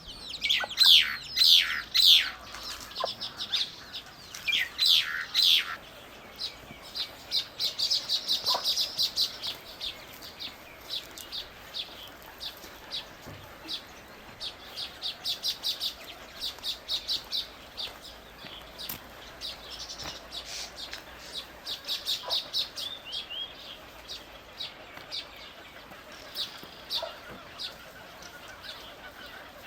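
Birds chirping and calling: a few loud, sharp, falling calls in the first six seconds, then long runs of quick, high chirps.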